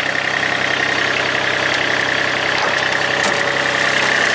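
Kubota D1105 three-cylinder diesel engine running steadily at idle, with a steady high whine over the engine noise.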